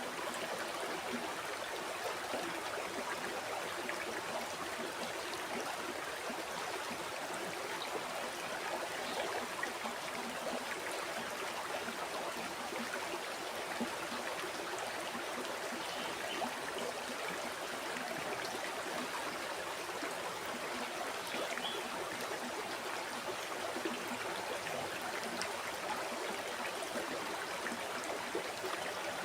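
River water flowing steadily over rocks: a continuous rushing and babbling, with small splashes and trickles throughout.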